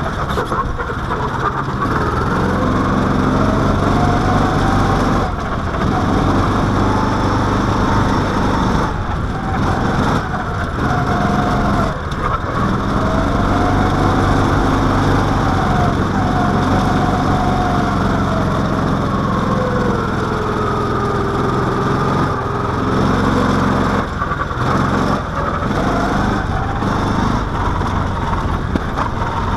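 Small single-cylinder engine of an SAE mini-baja off-road car, heard from the driver's helmet, revving up and down as it is driven around the lap. The pitch rises and falls repeatedly, with several brief drops when the throttle is let off.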